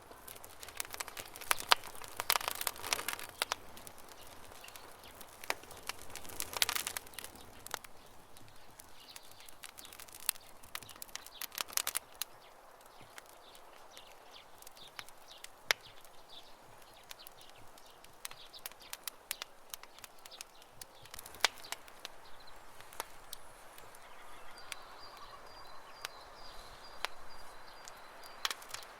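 Wood fire crackling, with irregular sharp pops and snaps, some in quick clusters, over a soft hiss. Faint bird chirping near the end.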